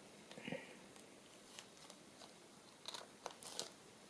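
Faint paper handling: light rustles and small clicks, with a few brief clusters of crinkling about half a second in and again near the end.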